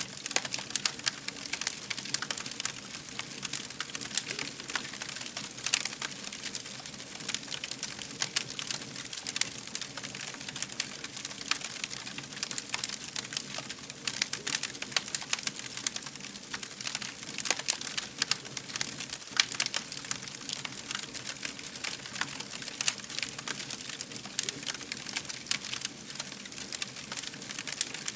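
Wood fire crackling: dense, irregular pops and snaps over a steady low background.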